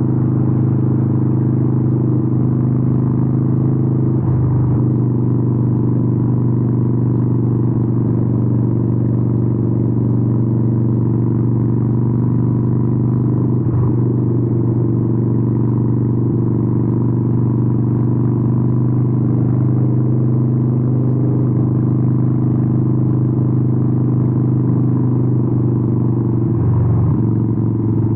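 Harley-Davidson 883N's air-cooled V-twin through Vance & Hines exhausts, running steadily at cruising speed with a deep, even note. The note breaks briefly about four seconds in, again near the middle, and once more near the end.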